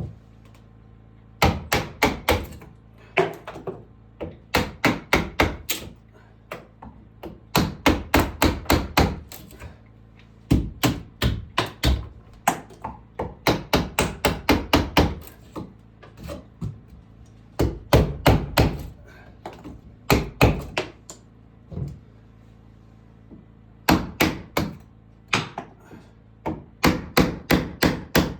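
Hammer blows on wood, in bursts of several quick strikes, about three or four a second, with short pauses between bursts, in a small room.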